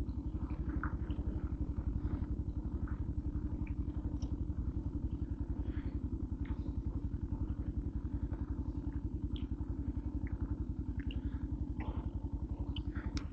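Motorcycle engine idling steadily with an even, fast exhaust pulse of about a dozen beats a second, with faint light ticks over it. It cuts off abruptly at the very end.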